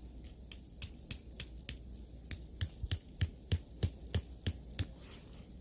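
Tent stake being hammered into the ground: about fifteen sharp knocks at roughly three a second, with a short pause about two seconds in.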